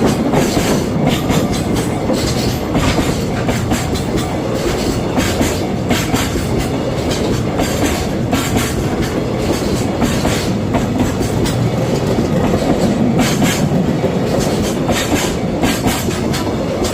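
Container freight train rolling steadily past at speed, a continuous rumble with the wheels clacking over the rail joints.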